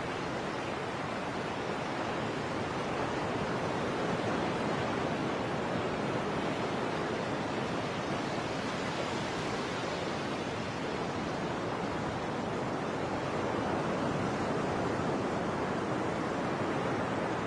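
Steady rushing noise of water and wind, even throughout, ending in an abrupt cut.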